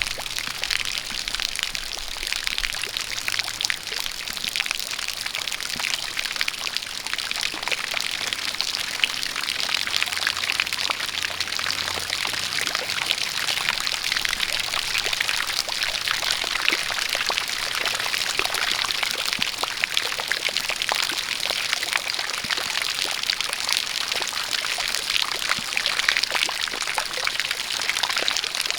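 A steady jet of water splashing and pouring, with a patter of drops throughout.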